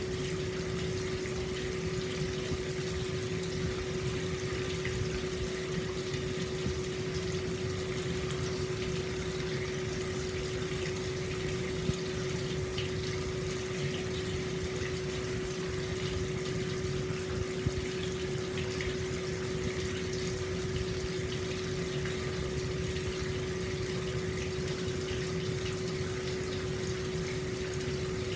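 Hot spring water pouring steadily into an open-air stone bath, a continuous even splashing flow, with a steady hum running underneath. A couple of faint ticks sound about halfway through.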